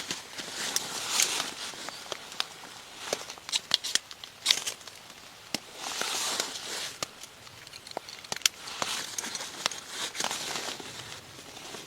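Crinkly rustling in bursts, with many sharp snaps and clicks scattered through it, as of dry material being handled.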